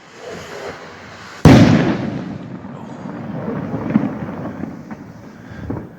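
Firework rocket bursting with one sudden loud bang about a second and a half in, followed by a rumbling echo that slowly fades.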